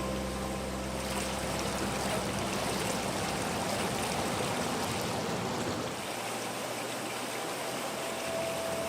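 Steady rush of water cascading down a water slide, with a low hum that fades out a couple of seconds in.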